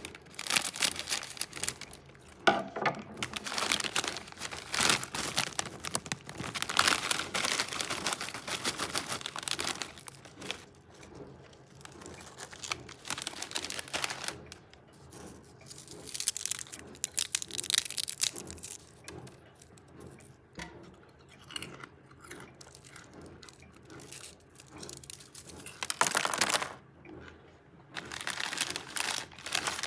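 Crinkling and rustling of a plastic potato chip bag, handled close to the microphone in several loud bursts with quieter stretches between.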